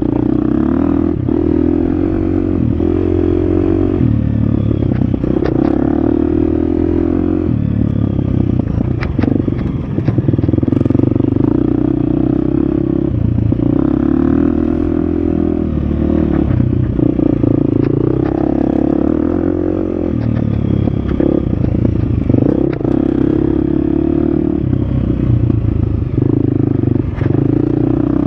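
Husqvarna FX 350 four-stroke single-cylinder dirt bike engine revving up and down over and over as it is ridden off-road, with clatter and scraping from the bike over rough ground.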